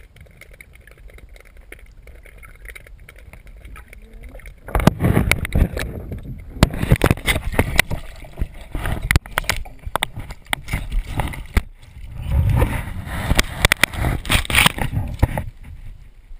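Water splashing and gurgling around a kayak on a river. It becomes loud and choppy about five seconds in and drops back near the end.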